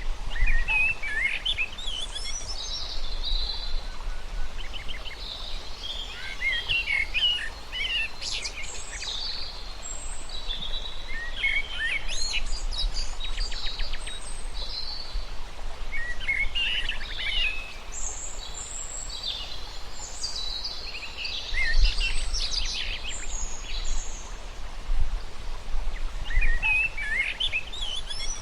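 Songbirds singing and chirping in short, rapid phrases that come every few seconds, over a steady outdoor background hiss and a low rumble.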